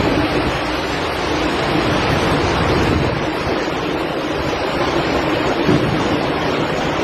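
Strong tornado wind blowing steadily, buffeting the phone's microphone with a low, fluctuating rumble under a steady rush.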